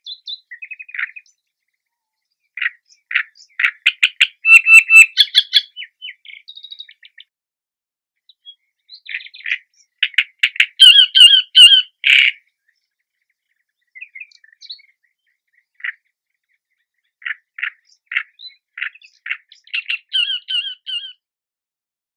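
Great reed warbler singing: three bouts of quickly repeated notes with pauses of a couple of seconds between them.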